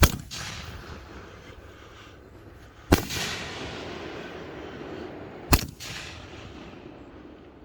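Raccoon Fireworks' Migraine brocade-crown cake firing: three loud sharp bangs, about two and a half to three seconds apart, each trailing off in a fading rumble.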